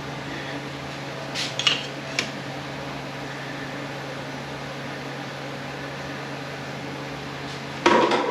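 Metal transmission parts and hand tools clinking and knocking while a stuck part is worked loose: a few light clinks about one and a half to two seconds in, and a louder clatter near the end, over a steady hum.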